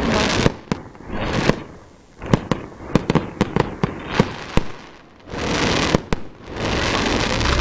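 Fireworks going off: a rapid run of a dozen or so sharp bangs in the middle, with stretches of hissing crackle at the start and again near the end.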